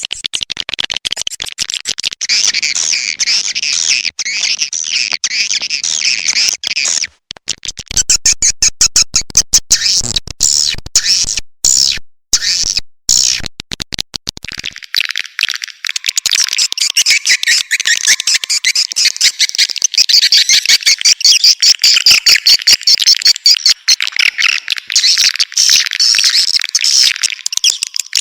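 Recorded edible-nest swiftlet calls played as a lure: a dense, rapid chatter of high twittering chirps and clicks. Around the middle it turns choppy with short breaks, then carries on continuously with a thinner, higher sound.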